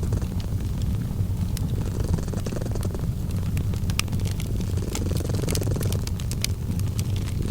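Cat purring steadily, a low rumble that swells and eases with each breath, over a fireplace crackling with scattered sharp pops.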